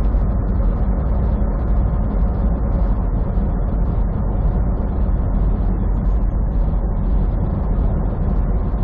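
Semi truck's diesel engine and road noise heard inside the cab while driving: a steady low drone that holds even throughout.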